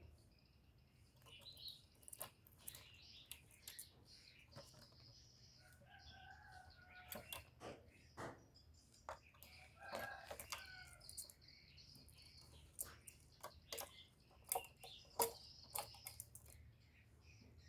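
Spotted dove giving soft, low coos, twice: about six seconds in and again about ten seconds in. Faint high chirps and scattered light clicks or rustles run between them.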